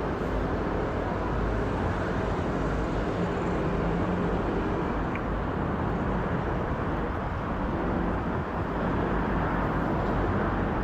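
Boeing 777-300ER's GE90 jet engines running at low taxi thrust, a steady low rumble with no change in pitch.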